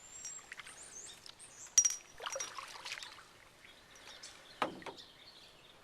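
Canoe paddling: water pouring and trickling off the paddle, with a sharp knock a little under two seconds in. Faint high bird chirps sound in the background.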